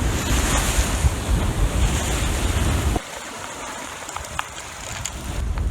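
Wind buffeting the microphone over the rush of water along a sailboat's hull, under sail in a strong breeze. About three seconds in it drops suddenly to a quieter wash of water with a few faint ticks, then builds again near the end.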